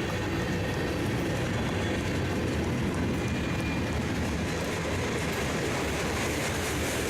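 BNSF freight train rolling past: a steady, continuous rumble of wheels and cars on the rails.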